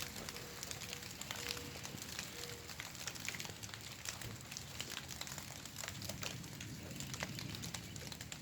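Rain falling, with a dense, irregular patter of drops ticking close by.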